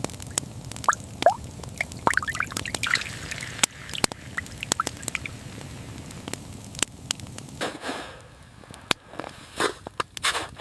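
Water dripping in irregular small plinks among scattered sharp clicks, with a few short scraping sounds near the end.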